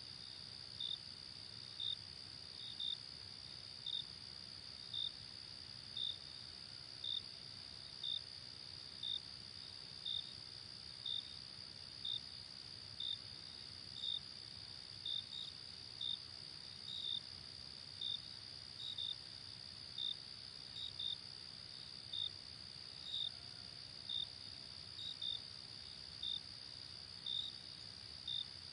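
Night insects: a steady high trill, with a shorter chirp repeating about once a second, sometimes in quick pairs, over a faint low background hiss.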